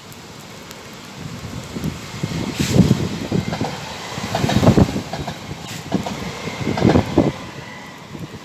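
SNCF TER regional passenger train passing at speed, its rumble building about two seconds in, surging several times as the cars go by, and easing near the end.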